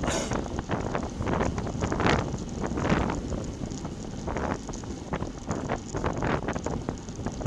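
Heavy wind buffeting the camera microphone on a moving road bicycle, surging in irregular gusts.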